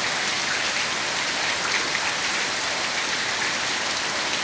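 Heavy, steady rain falling and pattering on surfaces, an even hiss with scattered individual drop splashes.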